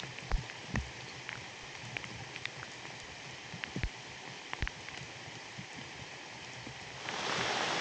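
Rain falling steadily, with scattered individual drops ticking close by and a few low thuds. About seven seconds in it swells into a louder, denser downpour.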